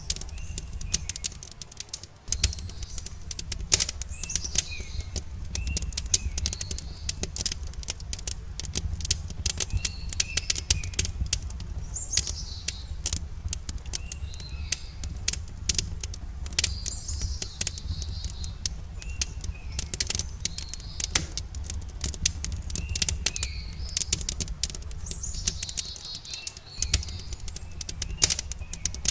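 Campfire crackling, with frequent irregular sharp pops and snaps over a low, steady rumble of flames. Small birds chirp in short calls every few seconds.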